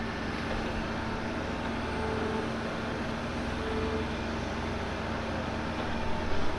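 Excavator's diesel engine running steadily at working speed, with a couple of brief higher-pitched tones partway through and a few louder knocks near the end.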